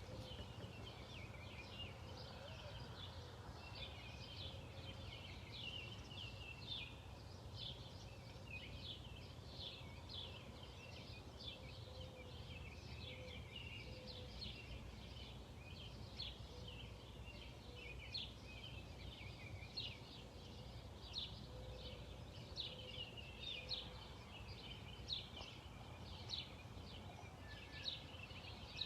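Small birds chirping, a fast, continuous run of short high chirps, faint over a low steady outdoor rumble.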